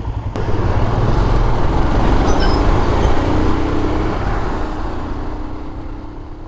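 Heavy road vehicle passing close by on a mountain road, its engine and tyre noise swelling and then fading away.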